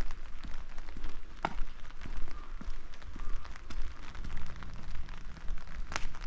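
Rain falling, with many sharp drop ticks close by over a steady low rumble. A faint low hum comes in about four seconds in.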